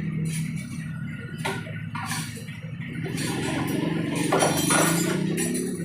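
A small engine running steadily, its pitch rising over the second half, with sharp metallic clinks and knocks of tools.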